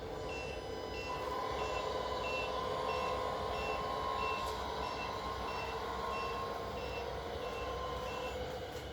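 Simulated reversing beeper from the MFC-03 sound unit of a Tamiya 1/14 Mercedes-Benz 4151 RC tipper truck: a short high beep repeating about one and a half times a second, about thirteen times, over the unit's steady simulated engine drone. The model truck is backing up.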